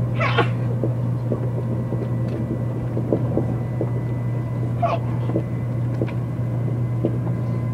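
Shinkansen running at speed, heard inside the passenger cabin: a steady low rumble and hum with faint light clicks and knocks. A brief higher-pitched squeak comes just after the start and again about five seconds in.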